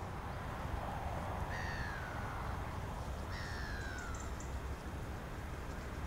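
A bird giving two drawn-out calls, each falling in pitch and lasting about a second, the first about a second and a half in and the second a couple of seconds later, over a steady low rumble.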